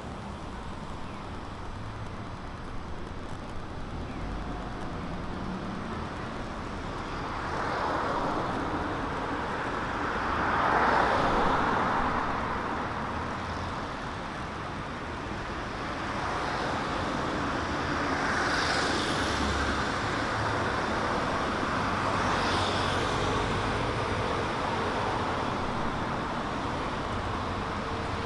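Road traffic: cars passing one after another on a city street, with the loudest pass about eleven seconds in.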